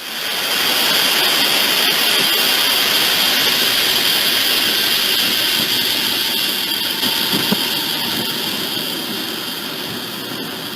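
Train running past, a steady rushing noise with a high whine over it that slowly fades over the last few seconds.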